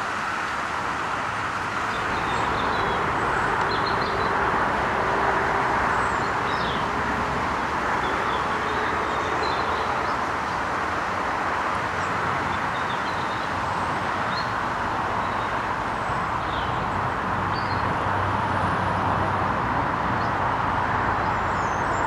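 Steady hum of distant road traffic, with faint scattered bird chirps over it.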